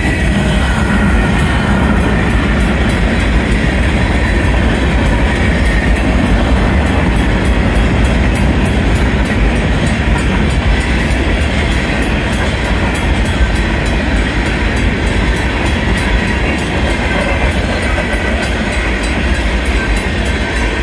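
Union Pacific manifest freight train's cars rolling past at speed: a steady, loud rumble and rattle of steel wheels on the rails, with a fast, even clicking over it.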